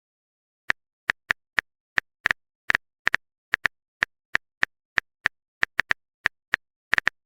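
Phone keyboard typing sound effect: a run of short, light clicks at an uneven pace, about three or four a second, some in quick pairs.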